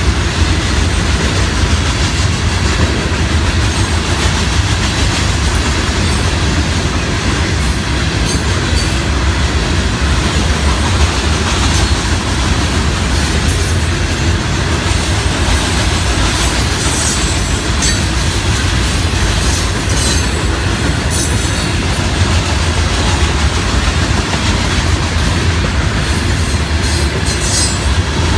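Florida East Coast Railway freight train of loaded rock hopper cars rolling past: a steady rumble of steel wheels on rail, with brief high wheel squeals and clanks now and then, more often in the second half.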